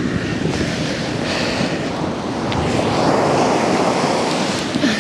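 Ocean surf washing onto a beach, a steady roar that swells to its loudest about three seconds in, with wind buffeting the microphone.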